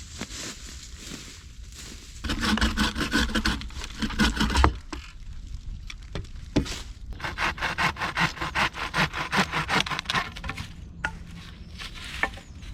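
Hand saw cutting wood in two bouts of fast back-and-forth strokes, with a pause between them and a few light knocks near the end.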